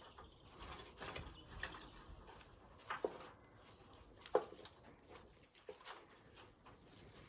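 Faint rustling and light cracking of broom stems and willow twigs as they are twisted and fed into a woven nest, with a few sharp clicks, the clearest about three and four seconds in.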